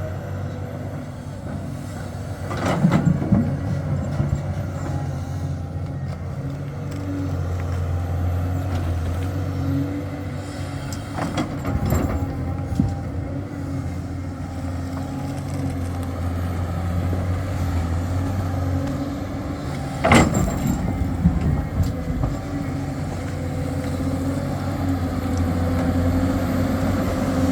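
Diesel engine of a heavy earthmoving machine running under varying load, with three loud knocks about 3, 11 and 20 seconds in.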